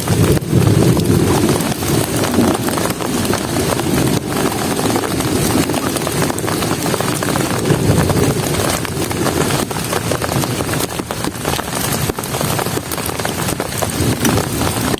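Heavy rain falling, a dense patter of drops striking a camp shelter, with a low rumble that swells in the first couple of seconds and again about halfway through.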